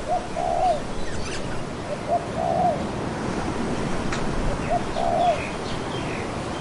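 Dove cooing: three calls about two seconds apart, each a short note followed by a longer one, over a steady background hiss.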